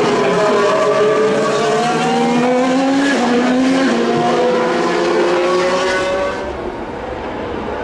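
2019 Formula 1 cars' 1.6-litre turbocharged V6 engines running at high revs on track. The pitch climbs, then drops in steps like gear upshifts about three and four seconds in. The sound gets quieter a little after six seconds.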